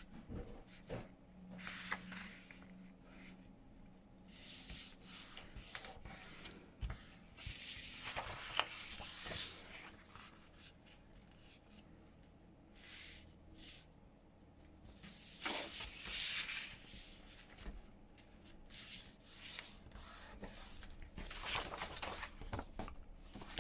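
Paper pages being handled, with irregular swishes and rubs as sheets slide against each other and are shuffled into place.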